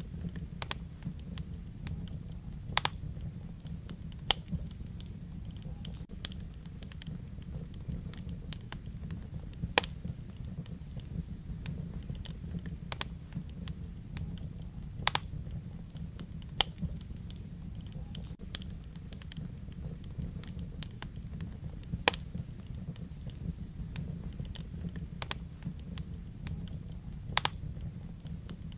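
Wood fire crackling in a fireplace: irregular sharp crackles and pops, half a dozen of them loud, over a steady low rumble of the flames.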